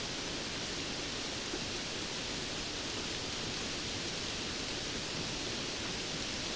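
Steady rainfall, an even hiss with no distinct drops or thunder.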